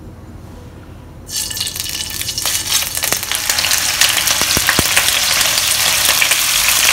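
Hot oil sizzling as pieces of firm tofu are laid one by one into a non-stick wok to pan-fry. The sizzle starts suddenly about a second in and grows louder as more pieces go in, with a few sharp clicks.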